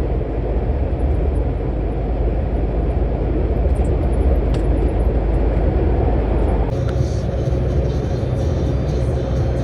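Lorry driving, with a steady low engine and road rumble. Background music plays over it, and the sound changes abruptly about two-thirds of the way in.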